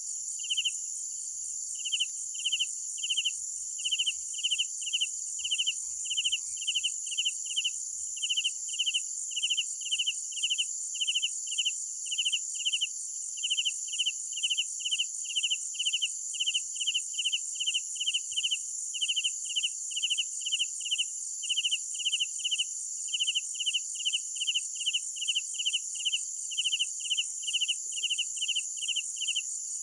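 Crickets chirping: one loud chirp repeating steadily at about two to three a second, over a continuous high-pitched insect trill.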